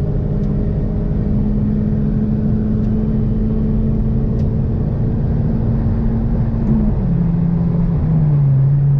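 Inside the cabin of a 1992 Toyota Paseo: its four-cylinder engine drones steadily under way over road rumble, the pitch creeping slowly upward. Near the end the pitch drops twice in quick steps, then holds lower.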